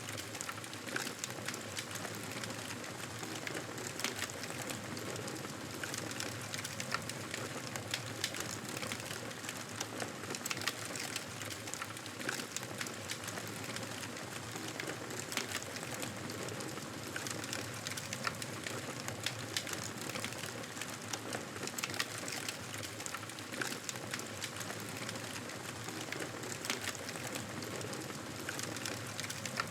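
Wood fire crackling: a steady hiss of burning with frequent small, irregular pops and snaps.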